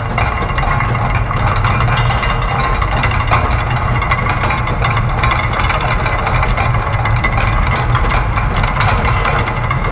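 Layered loops of factory machinery sounds: dense, rapid clicking and clattering of gears and ratchets over a steady low mechanical hum.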